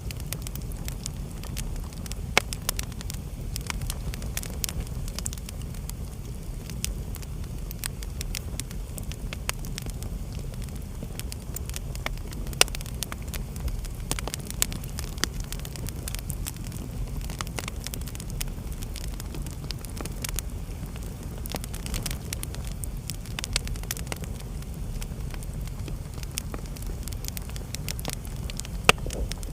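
Wood fire burning in a fireplace: a steady low rumble of flames with constant crackling and scattered sharper pops from the burning logs.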